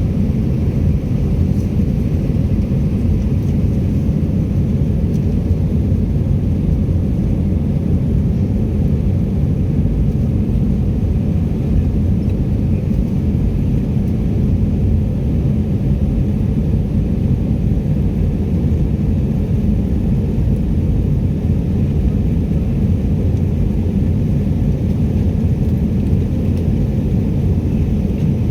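Steady low rumble of engine and airflow noise inside a passenger airliner's cabin in flight after take-off.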